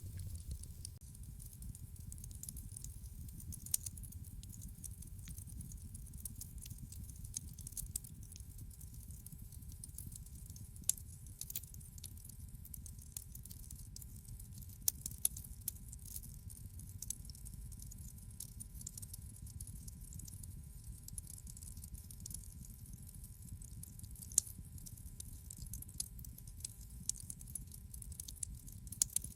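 Wood fire in a fireplace crackling: a low steady rumble of flames with many irregular sharp pops and snaps.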